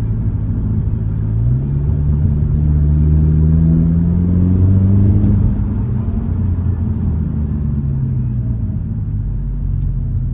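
Hyundai Elantra N's turbocharged four-cylinder engine pulling under acceleration: its note climbs in pitch for a few seconds, then levels off and eases slightly as the car settles to a steady speed.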